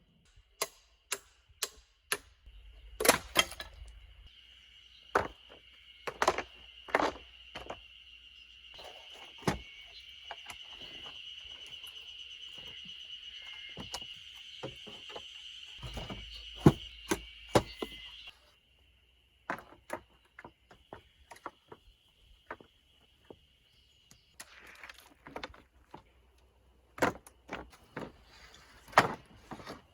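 Irregular sharp knocks and thuds of hand tools striking stone and earth while quarrying stone. They play over a steady high-pitched buzz that cuts off abruptly a little past the middle and then returns more faintly.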